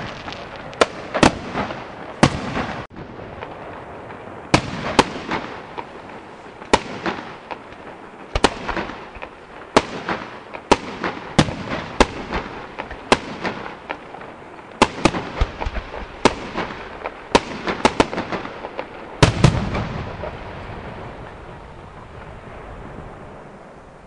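Aerial firework shells bursting in an irregular run of sharp bangs, about one or two a second, with a short lull early on. A deeper, heavier boom comes about four-fifths of the way through, and its rumble fades away after the last bangs.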